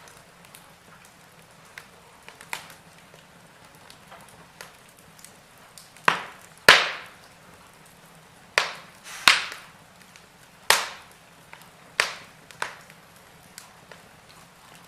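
Wood fire in a fireplace crackling, with irregular sharp pops over a faint steady hiss; the loudest pops come in the middle of the stretch.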